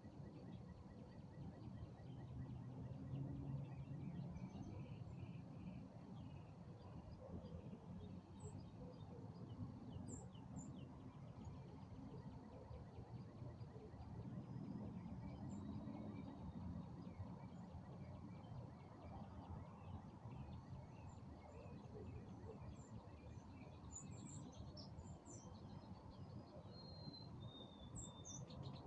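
Evening outdoor ambience: a faint steady low rumble with scattered bird chirps and calls, which grow busier near the end with a quick trill.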